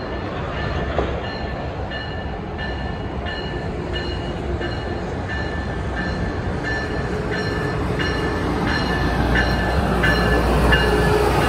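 Train rumbling along the platform with its bell ringing steadily, about one and a half strokes a second. The rumble grows louder toward the end as the train comes closer.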